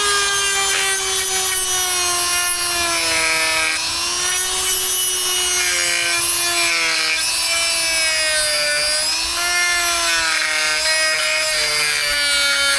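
Dremel rotary tool whining as it cuts through soft plastic trim, with a rasping grind on top; its pitch sags and recovers as the cut loads the motor.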